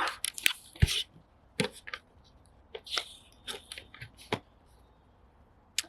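Irregular clicks and short rustles of handling noise, thickest in the first half and thinning out near the end.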